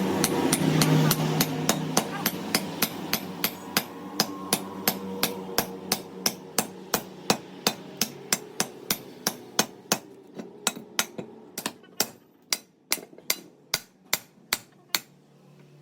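Hammer striking metal in steady blows, about three a second, that become more irregular and stop near the end. A machine's steady hum fades away behind the blows.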